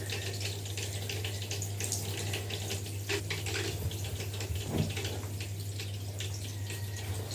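Tap water running steadily into a sink or bath, splashing, with a steady low hum underneath.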